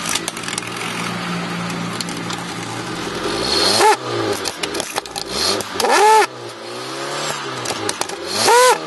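Car engine running steadily, then revved in three quick blips about two seconds apart, each rising and falling in pitch, through a length of rubber hose fitted over the exhaust tailpipe as a makeshift tuning pipe.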